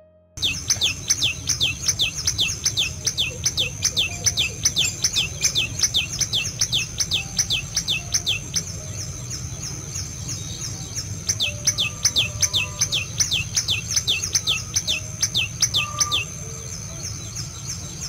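Common tailorbird calling: a fast run of sharp, downward-sweeping notes, about three to four a second. It breaks off for a few seconds in the middle and then starts again, over a steady high-pitched whine.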